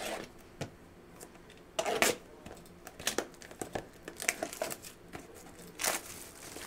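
Trading card pack wrappers being torn open and crinkled by hand, in irregular short bursts, the loudest about two seconds and six seconds in.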